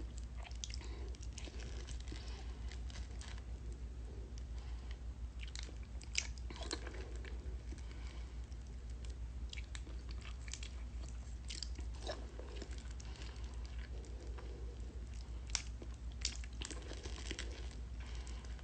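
A person eating a juicy mango close to the microphone: wet chewing, biting and mouth smacks, irregular throughout, over a steady low hum.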